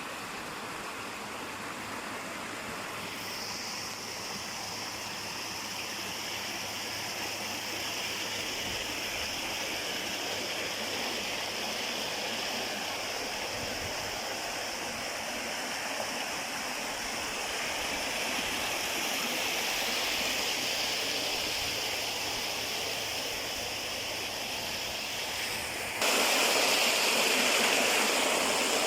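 A stream of water running steadily. It grows suddenly louder a few seconds before the end.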